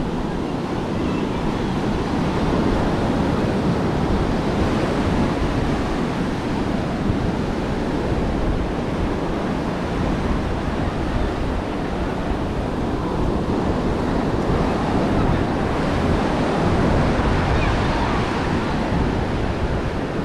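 Ocean surf washing onto a sandy beach: a steady rush of breaking waves that swells and eases, with wind buffeting the microphone.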